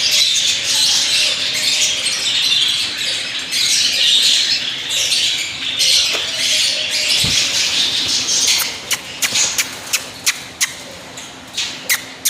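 African grey parrot squawking in a dense, raspy stream, then a quick run of about ten sharp clicks in the last few seconds.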